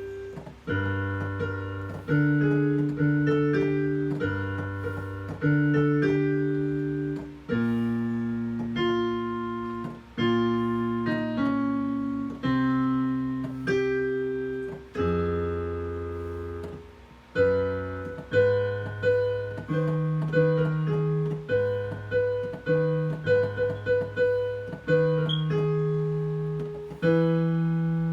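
Piano playing a piece of chords over held bass notes, each struck note fading away; from about halfway through, a quicker run of short repeated notes.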